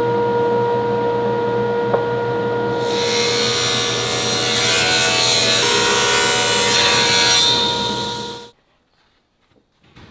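A woodworking power tool running with a steady pitched hum; about three seconds in it bites into wood with a loud hissing rasp, until the sound cuts off suddenly about eight and a half seconds in.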